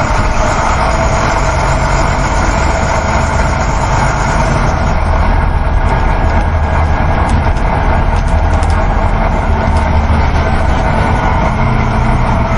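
Coach bus heard from inside while driving: a steady engine drone and low road rumble.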